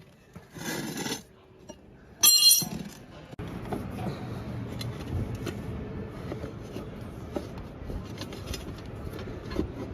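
Light metal clinks and a short, sharp high squeal from work on a wheel during a tyre change, then a steady low rushing noise from about three seconds in.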